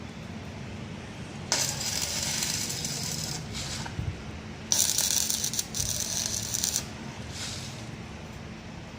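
Electric arc welding crackling in short runs: two bursts of about two seconds each and a brief third one near the end, over a steady low hum.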